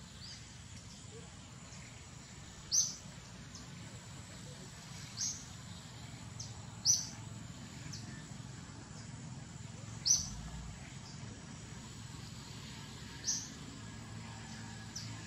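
A bird's short, high chirp, repeated about five times at intervals of a few seconds, over a steady low background rumble and a faint high insect-like drone.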